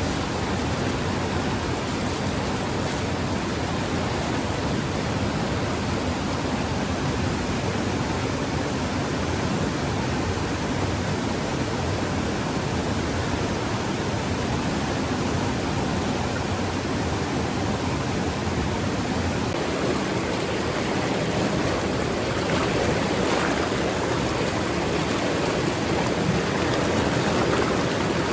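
A steady, even rush of water, getting slightly louder near the end.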